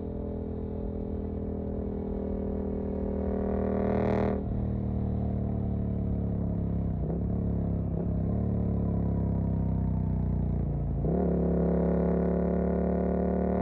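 Suzuki GSX-8S parallel-twin engine through a Jeskap EVO aftermarket exhaust, under way. It revs up over the first few seconds to a sharp gear change, then the revs ease down through several brief breaks in the note, and the engine pulls louder again near the end.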